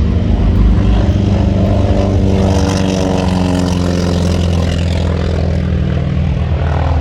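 Propeller airplane engine running loud and steady, its pitch sinking a little through the middle as the plane passes.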